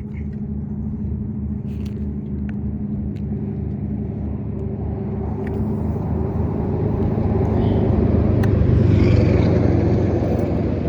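Motor vehicle engine rumbling steadily, growing louder to a peak about nine seconds in and then easing off, like a vehicle passing close by.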